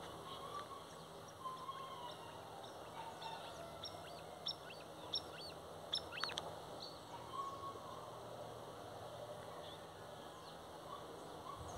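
Birds chirping and calling in open country: many short high chirps and a few longer, lower calls scattered throughout, over a faint low steady hum that fades out about two-thirds of the way through.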